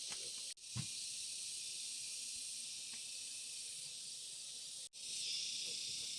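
Steady high-pitched hiss that cuts out abruptly twice, once about half a second in and again near the end, with a few faint low knocks.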